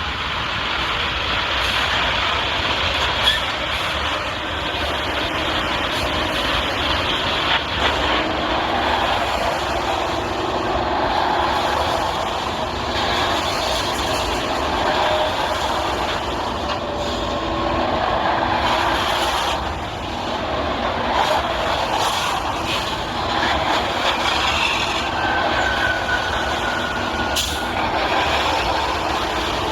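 Heavy vehicle running steadily, a continuous rattling noise with scattered clanks and a short high squeal near the end.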